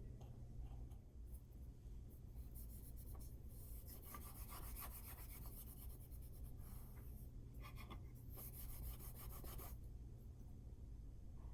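Faint scratching and rubbing strokes of hand work on a small hard part, in several short bursts; the longest comes in the second half.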